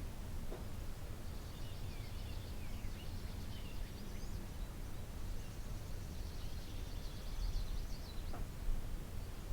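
Songbirds singing in two bouts of quick chirping phrases a few seconds apart, over a steady low rumble.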